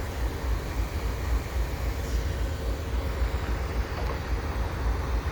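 GE AC4400CWM diesel locomotives idling on a stopped freight train: a steady low rumble.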